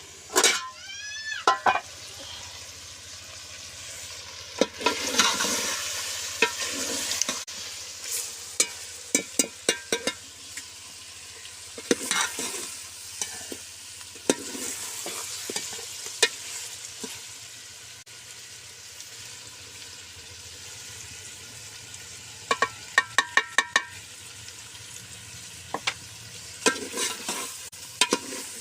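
Chicken frying with onions and garlic in hot oil, sizzling steadily, while a spoon stirs and scrapes the pot with scattered knocks and clicks, including a quick run of knocks against the pot late on.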